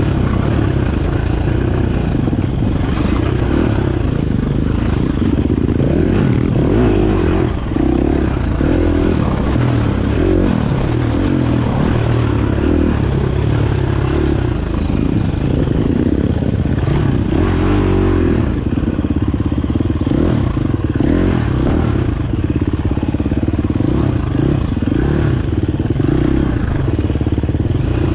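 Dirt bike engine running under way, its revs rising and falling constantly.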